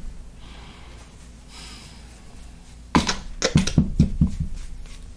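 A person laughing: a quick run of breathy bursts starting about three seconds in and lasting about a second and a half.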